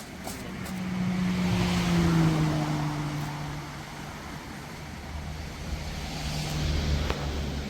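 A motor vehicle passing: a low engine hum that sinks slightly in pitch while road noise swells about two seconds in and fades, then swells again more faintly near the end.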